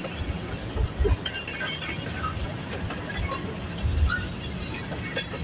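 Freight train rolling past, its wheels rumbling on the rails with low thumps about a second in and again about four seconds in, and short scattered wheel squeaks.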